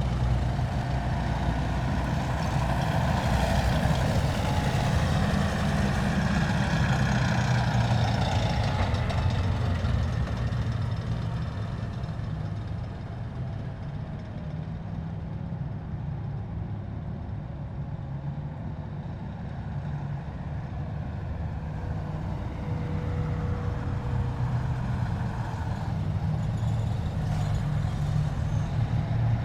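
Heavy military vehicles passing in a column, their diesel engines running with a deep, steady rumble. It is loud for the first ten seconds, eases off in the middle with a faint gliding whine, and swells again near the end as more vehicles come by.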